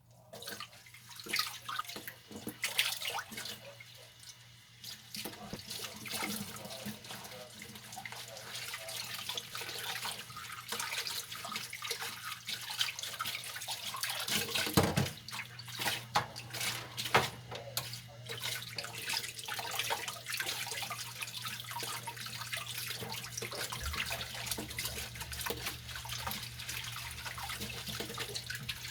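Dishes being washed by hand at a kitchen sink: tap water running and splashing, with clinks and knocks of dishes being handled. It grows steadier and fuller after about five seconds.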